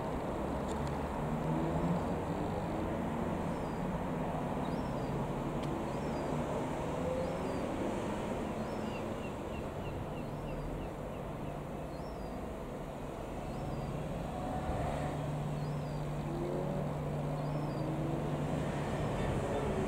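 A steady, distant engine drone under outdoor noise, growing a little stronger in the second half, with small high chirps every few seconds and a short trill about nine seconds in.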